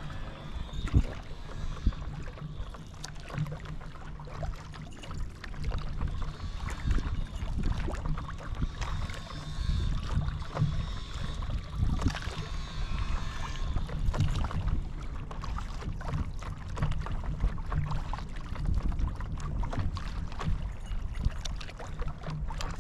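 Paddleboard on open lake water: water splashing and lapping against the board with paddle strokes, over a constant low rumble of wind on the microphone.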